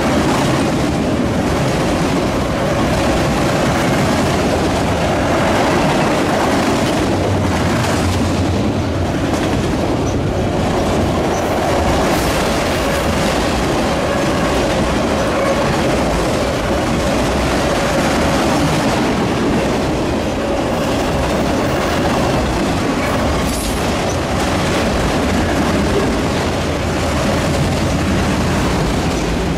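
Freight train of autorack cars rolling past at close range: a steady, loud rumble of steel wheels on rail with the clickety-clack of wheels over the rail joints.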